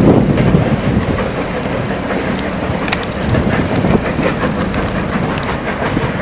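A slow-moving goods train with a brake van rolls along the track, with a steady low rumble and irregular clicking and clattering of the wagon wheels on the rails.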